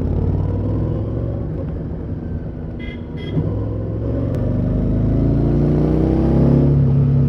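Harley-Davidson Street 750's V-twin running through its stock exhaust under way. The engine note climbs steadily in pitch and grows louder from about four seconds in as the bike accelerates.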